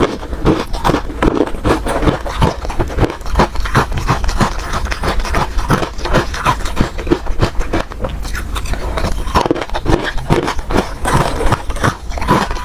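Ice being bitten and chewed close to the microphone: a continuous, irregular run of crunches.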